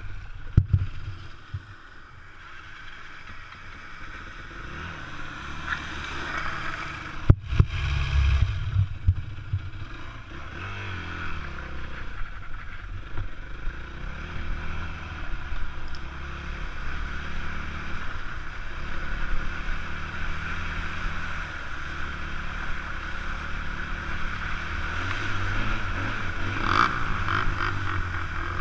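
Enduro motorcycle engine running steadily at low revs, with wind noise and sharp knocks about a second in and again about seven seconds in.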